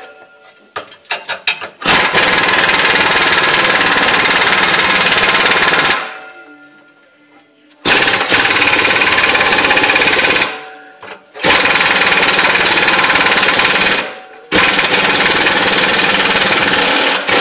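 Impact wrench hammering on a bolt in four long bursts of about three seconds each, working a stubborn bolt loose.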